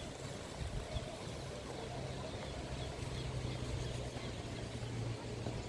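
Outdoor park ambience: a steady low hum, like distant traffic or machinery, with faint bird chirps now and then.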